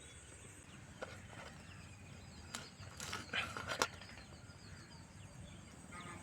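Faint outdoor background with a few short, light clicks and brief chirps scattered through it, most of them about three seconds in.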